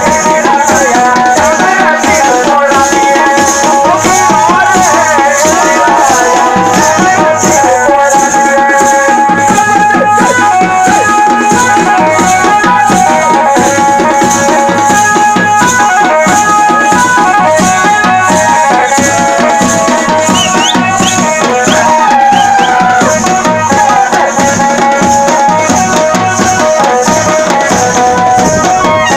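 Jaunsari folk dance music: a fast, steady drum beat with rattling percussion under a bending melody line.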